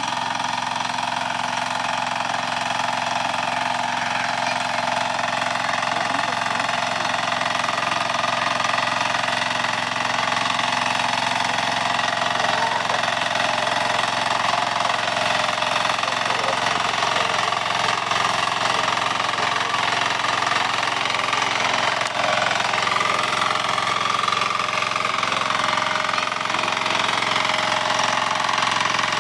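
Kirloskar Mini T8 diesel power weeder's engine running at a steady speed.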